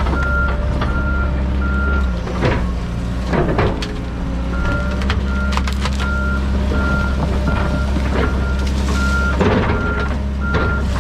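John Deere 130G excavator's diesel engine running steadily while its travel alarm beeps about twice a second, pausing for a couple of seconds about two seconds in. Metallic clanks and knocks from the machine working come through several times.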